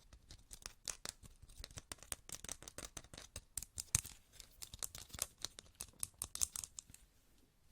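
Close-miked ASMR trigger sounds: fast, dense clicking and tapping, many sharp clicks a second, that stops about seven seconds in.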